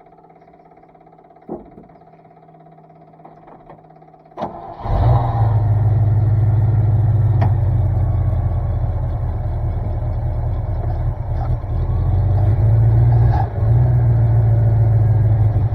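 A few light clicks, then about four and a half seconds in a truck engine starts and runs steadily at a low idle.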